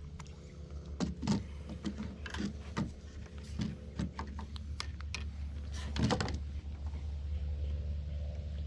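Irregular light clicks and knocks from a fishing rod and reel being handled while a channel catfish is played in, a few close together about six seconds in, over a steady low rumble.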